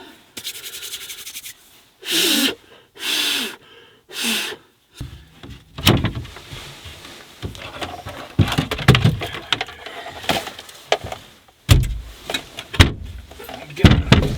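Gear being handled and shifted inside a truck-bed camper: irregular knocks, thumps and rustling, with the loudest thumps in the second half. Three short vocal sounds come between about the second and fifth seconds.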